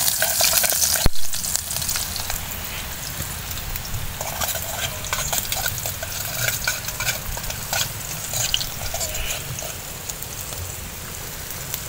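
Chopped aromatics frying in hot oil in a small metal pot over a wood fire, sizzling and crackling steadily while being stirred with a spatula. The sizzle is loudest in the first second, and there is one sharp knock about a second in.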